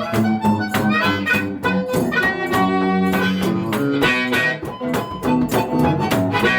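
Live blues music led by harmonica, with a rhythmic accompaniment of sharply attacked notes and a few longer held notes near the middle.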